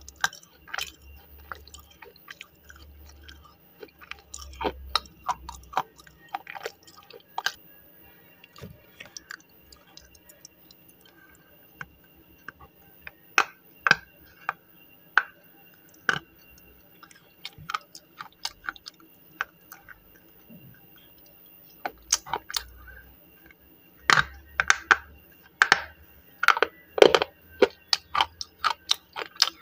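Slate pencil being bitten and chewed close to the microphone: sharp, brittle crunches at irregular intervals, coming thickest near the end.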